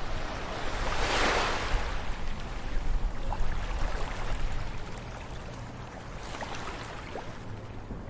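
Ocean surf on a beach: a wave breaks about a second in and its wash fades away, with a smaller wave washing in near the end.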